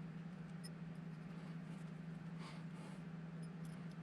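Quiet room with a steady low hum, over which tiny screws are worked gently with a small wrench: one faint tick under a second in and a soft scrape about halfway through.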